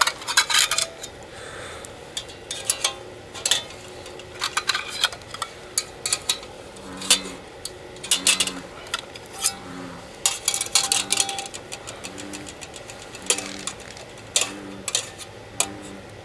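Clicks and knocks of camp cooking gear being handled. From about halfway through, a frog croaks in the background, a short low call repeated about every 0.7 seconds.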